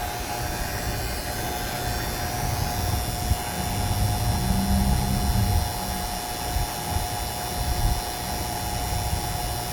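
A 7 CFM NAVAC vacuum pump running steadily with a constant hum, pulling a vacuum on an air conditioning system after more than 15 minutes of evacuation. A low rumble swells and fades near the middle.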